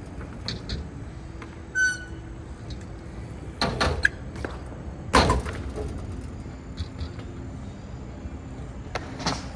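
BMX bike being ridden: a few scattered knocks and clacks, the loudest about five seconds in.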